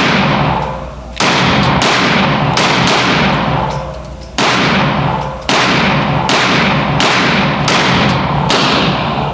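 Glock 32 pistol firing .357 SIG rounds, about a dozen shots at an uneven pace, some in quick runs, each shot ringing on in a reverberant indoor range.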